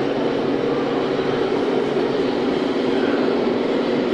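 Steady exhibition-hall din with a continuous low drone, unbroken throughout.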